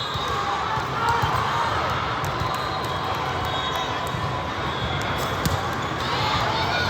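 Volleyball match in a gym: a steady murmur of spectator and player voices in the hall, with a few sharp ball thuds.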